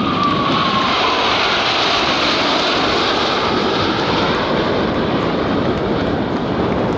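Military display aircraft flying past, a loud steady engine roar with a whine that drops in pitch about a second in as it passes.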